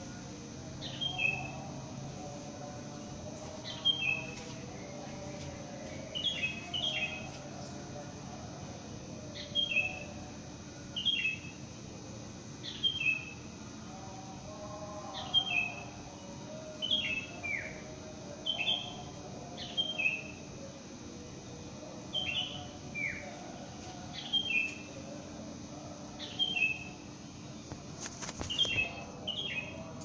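Birds singing at dawn: one bird repeats short, sharp falling notes in quick groups of two or three, every second or two, over fainter, lower chirping from other birds.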